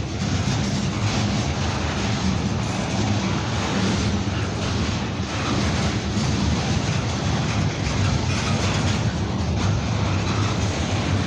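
CN freight train rolling slowly past at low speed, a steady low rumble of the moving train on the rails.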